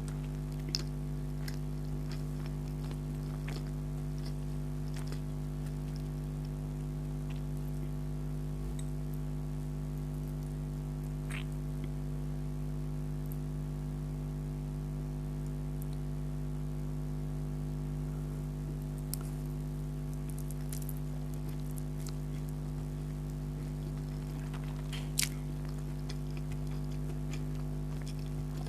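Close-miked chewing and mouth sounds of someone eating spicy chicken spaghetti, with scattered short clicks, the sharpest about a second in and near the end, over a steady low hum.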